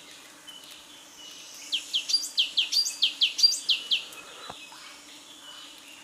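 Bird song: a run of about ten quick, loud down-slurred whistled notes lasting about two seconds, starting near two seconds in, over faint high background chirping.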